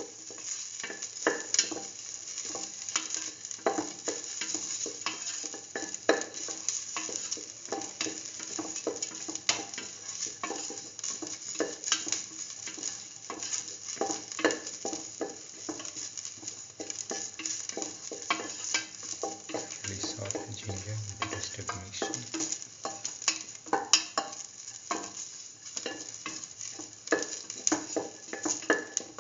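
Sliced shallots and ginger sizzling in hot oil in a stainless steel pan as they are stirred, with frequent sharp scrapes and knocks of the stirring utensil against the pan.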